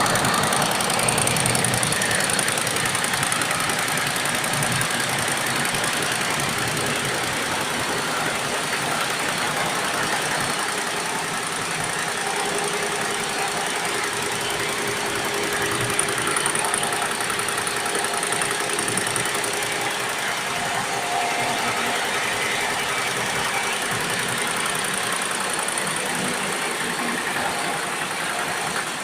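Computerized embroidery machine stitching: a steady, very fast mechanical clatter of the needle mechanism.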